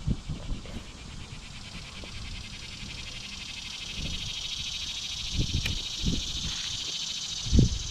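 Insects singing in a steady, high, rapidly pulsing chorus, with a few low wind buffets on the microphone, the strongest near the end.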